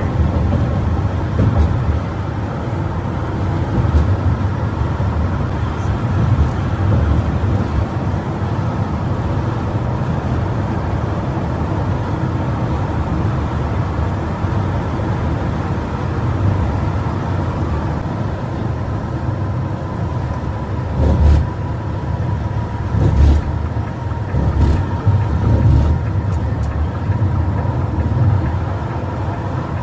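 A bus running at speed: steady engine and road rumble, with a few heavier low thuds about two-thirds of the way through.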